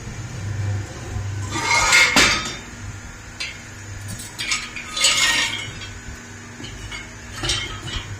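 Metal parts clinking and clattering a few times as they are handled, loudest about two seconds in, over a low steady hum.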